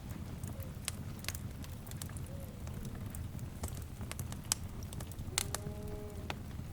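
Crackling fire: a steady low rumble of flames with sharp pops and snaps scattered throughout. About five and a half seconds in, a short pitched animal call sounds for under a second.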